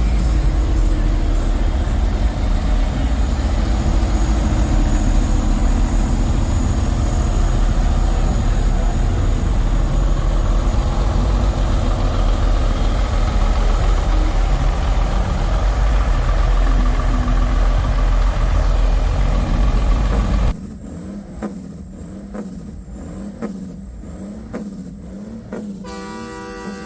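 Semi-truck diesel engine running close by, a loud, steady, deep rumble that cuts off abruptly about twenty seconds in. A much quieter stretch follows, with a steady pitched sound near the end.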